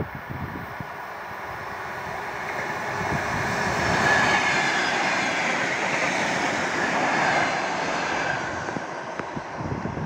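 Electric multiple-unit commuter train passing close by at speed: the rushing rumble of its wheels on the rails builds, is loudest midway, and fades as it runs away.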